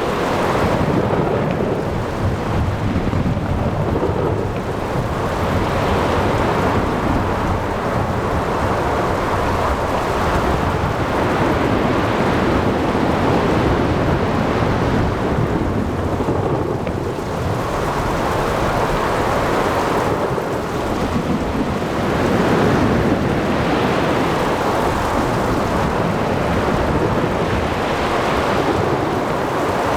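Thunderstorm: continuous heavy rain with low rumbling thunder, swelling and easing every few seconds.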